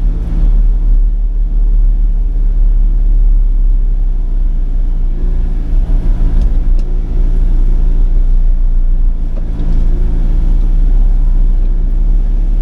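Sany 35 mini excavator's diesel engine running steadily under load while it mows with its mulching head, a deep, even drone. A couple of faint clicks come about halfway through.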